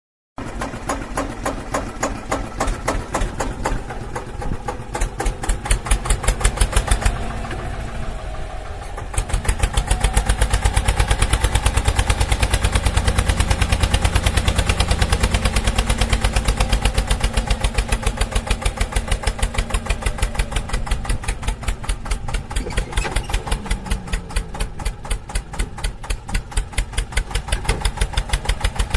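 An engine running with a steady, rapid chugging pulse, growing louder about nine seconds in.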